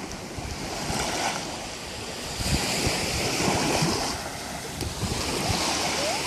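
Sea waves breaking and washing up a sandy beach, swelling loudest midway, with wind gusting across the microphone.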